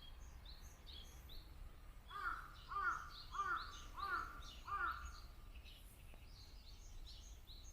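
A crow cawing five times in a steady series starting about two seconds in, over the continual high chirping of small birds.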